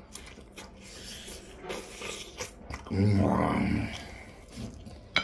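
A man chewing and biting into food with small crunches and wet mouth clicks. About three seconds in comes a low hummed vocal sound lasting about a second, and there is a sharp click near the end.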